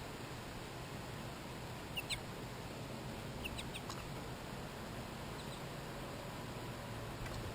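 A few short, high-pitched animal calls over a steady hiss: two about two seconds in, a quick cluster of several around three and a half seconds, and fainter ones a couple of seconds later.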